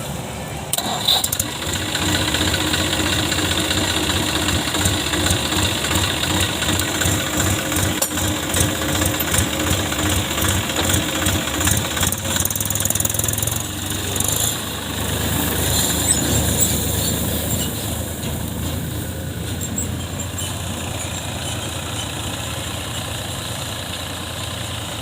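Tractor engine running, picking up about a second in and working harder with a quick, even pulse for a while before settling to a steadier, quieter run.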